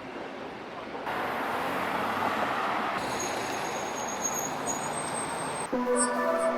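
Steady road traffic noise, a hiss of passing vehicles, changing at cuts; music starts near the end.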